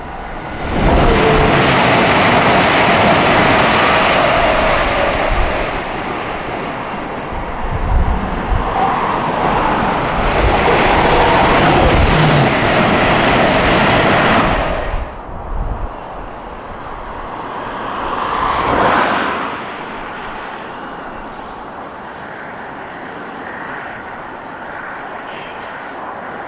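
A train passing close by at speed: a loud, steady rush of wheel and rail noise that comes in about a second in, holds for some fourteen seconds and then drops away, with a smaller swell of noise a few seconds later before a lower steady background.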